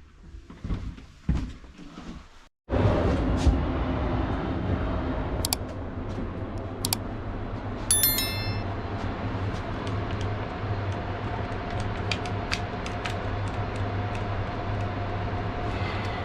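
BDZ passenger train running, heard inside the carriage: a steady rumble that cuts in abruptly after about two and a half seconds of scattered knocks and clicks. A few sharp clicks and a brief high ringing tone come about eight seconds in.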